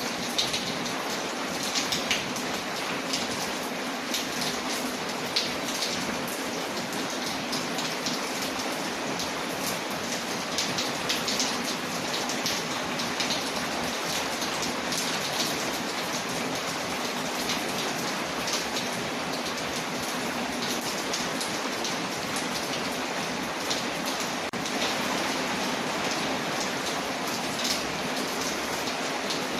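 Ambience of steady rain on a window layered with a crackling fireplace: an even hiss of rain with many small sharp pops and ticks scattered through it.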